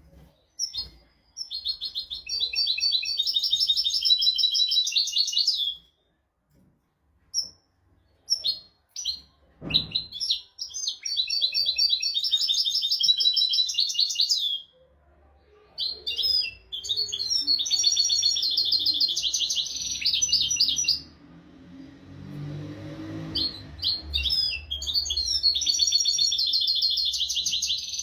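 European goldfinch singing in four long, rapid twittering phrases with short pauses between them. A brief low thump comes about ten seconds in, and a soft low rumble fills one of the pauses.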